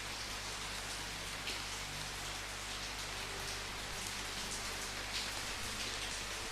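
Steady rainfall: an even hiss with scattered patters of drops striking a surface.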